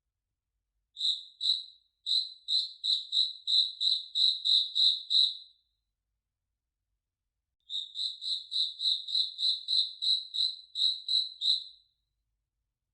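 A single cricket chirping: two runs of evenly spaced, high chirps at about three a second, each run lasting about four seconds, with a pause of about two seconds between them.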